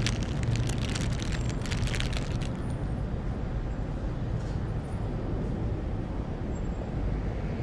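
Steady low rumble of city traffic ambience, with a crackly rustle over the first two and a half seconds or so.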